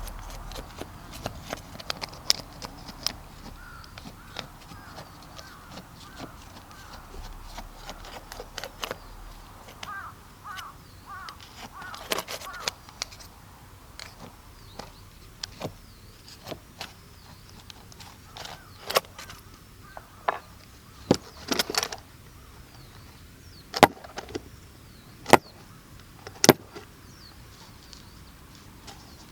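Firewood in an open campfire cracking and snapping, with sharp pops coming every second or two in the second half, while birds call in the first half.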